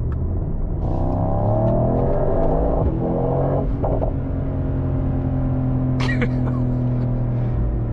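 Mercedes-AMG GT 63's 4.0-litre twin-turbo V8 pulling under acceleration, its note rising for about two seconds. It breaks briefly around three seconds in, then holds steady revs.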